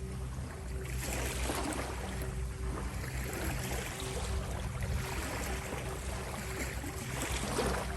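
Gentle ocean waves wash in and out, swelling every two to three seconds, over a steady low hum of sustained tones.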